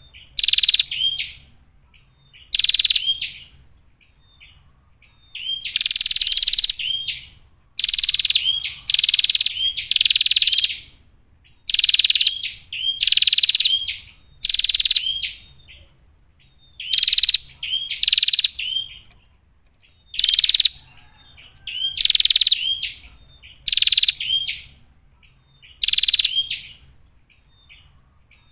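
Female prinia (prenjak) calling repeatedly: short, loud, sharp calls high in pitch, one every second or two, with brief pauses between runs.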